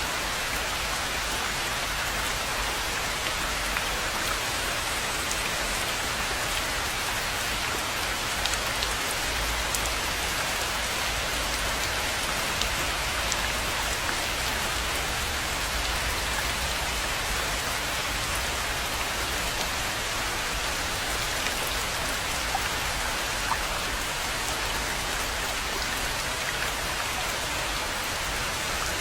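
Steady rain falling on a pond, an even hiss with scattered sharp drop ticks.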